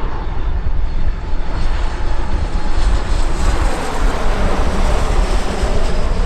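Jet airliner's engines passing close: a loud, rushing engine noise over a heavy low rumble. It swells through the middle, and its pitch slides down near the end as the aircraft goes by.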